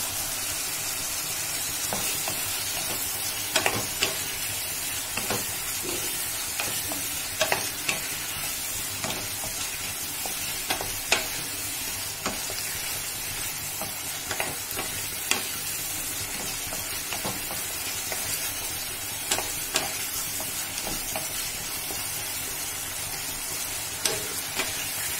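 Potato chunks frying in oily tomato-onion masala in a kadai, with a steady sizzle. A wooden spatula stirs them, making scattered sharp knocks and scrapes against the pan as the potatoes are sautéed in the spices.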